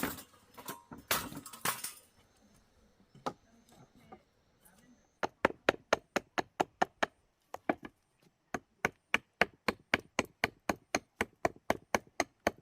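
A fast, even series of sharp knocks, about three to four strikes a second, with a short break partway through; a brief rustling clatter comes first.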